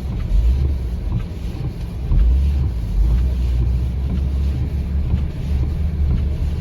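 Vehicle travelling a snow-covered road: a steady low rumble of engine and tyres, with some wind noise.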